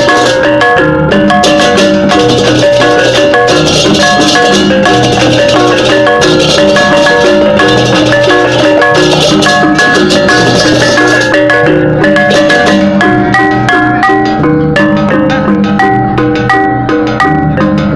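Balinese gamelan music: tuned metal keys and gongs struck in dense interlocking patterns over drums, with a bright, hissy cymbal layer running throughout.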